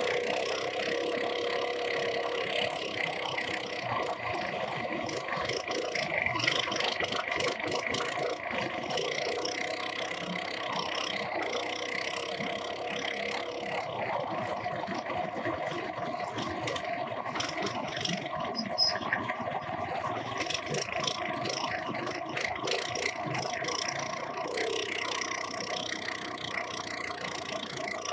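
Minibike engine running steadily under way through a timed lap, with frequent short clicks and rattles over it.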